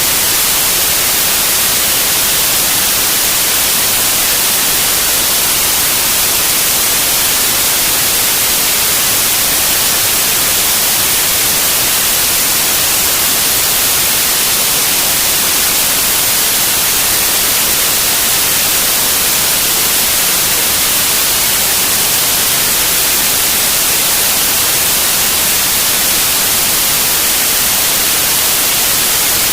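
Steady, loud static hiss from a CB radio receiver with no station transmitting.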